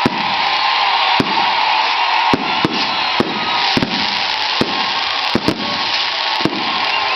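A run of sharp, irregular cracks and pops, about one or two a second, over a steady, loud rushing noise.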